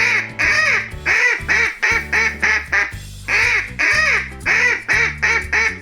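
Duck quacking over and over, a quick run of short quacks at about two or three a second.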